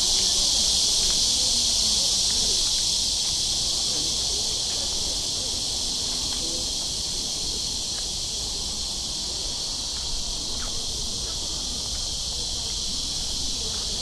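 Cicadas singing in a dense, steady chorus, a loud high-pitched hiss that eases slightly over the stretch.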